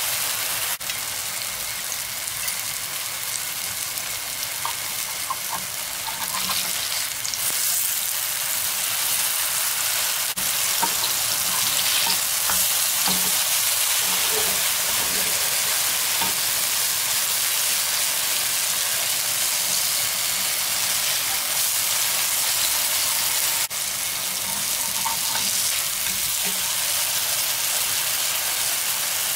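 Oatmeal-and-banana fritters sizzling in hot oil in a frying pan: a steady, bright hiss that cuts off for a moment a few times.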